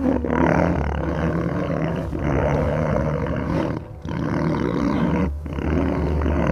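A large animal roaring: four long, rough roars, one after another.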